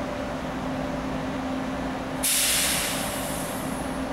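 A stationary ETR 500 Frecciarossa high-speed train hums steadily. About two seconds in there is a sudden loud hiss of released air, which fades away over about a second and a half.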